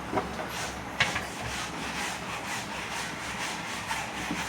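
Repeated rough scraping strokes of food being mixed by hand or utensil in a dish, with a single knock about a second in.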